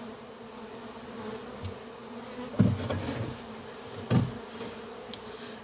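A honey bee swarm buzzing as a steady hum around an open hive box. Two dull knocks come about two and a half and four seconds in.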